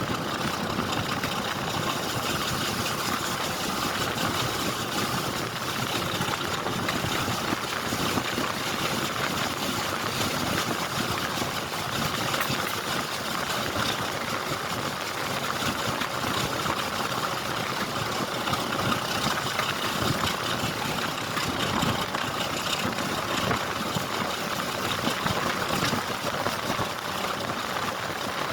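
A railway train running, a steady, unchanging mechanical rumble.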